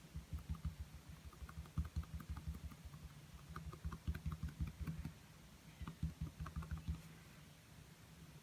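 Quick, soft tapping of paint being dabbed onto a small canvas, about four or five taps a second, with a short break midway and a stop near the end.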